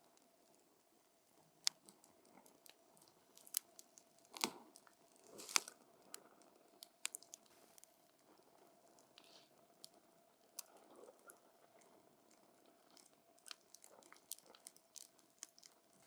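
Wood fire crackling: burning logs giving irregular sharp pops and snaps over a faint hiss, with the loudest pops about four and a half and five and a half seconds in.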